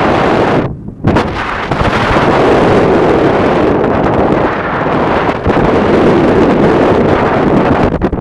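Strong wind buffeting the microphone in a loud, rough rush, starting suddenly, easing for a moment just before a second in, then blowing hard.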